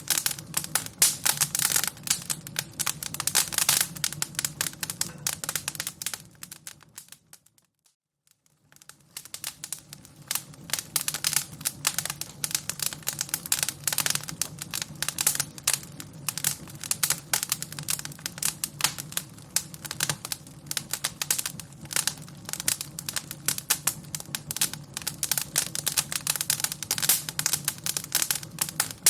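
Fire crackling: dense, irregular pops and snaps over a faint low hum. The sound fades out to near silence about seven seconds in and returns a second or two later.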